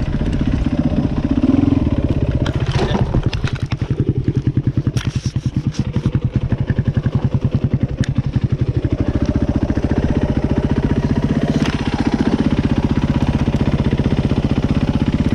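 Dirt bike engine running under changing throttle, its firing pulses slowing around the middle and picking up again, with a few sharp clatters along the way.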